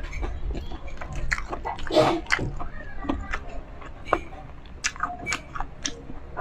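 Close-miked chewing of crispy pork belly and rice: wet smacking and many small mouth clicks, with one louder bite about two seconds in.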